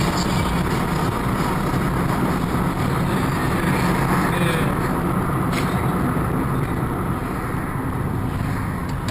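Steady vehicle engine and road noise, a continuous low rumble.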